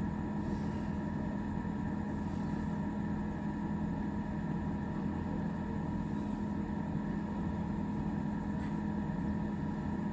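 Kings 75 L dual-zone 12 V compressor fridge running, a steady, even hum with a constant tone that does not change.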